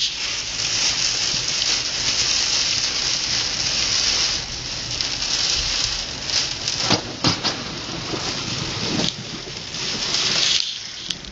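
Steady heavy rain falling on a car, heard from inside, with a few sharp cracks about seven and nine seconds in.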